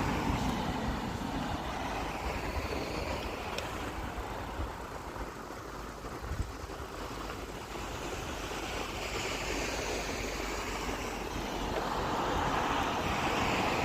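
Wind rushing over the microphone of a moving bicycle, a steady noise with a low rumble that grows louder near the end.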